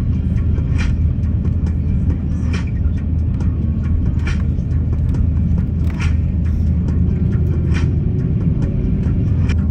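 Inside an Airbus A350-900 cabin while taxiing after landing: a steady low rumble of the engines and rolling gear, with a short thump about every second and three-quarters as the wheels cross joints in the taxiway.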